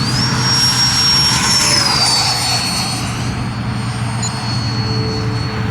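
RC electric ducted-fan model jet in flight: a high fan whine over a rushing of air. The whine drops in pitch about two seconds in, then holds steady.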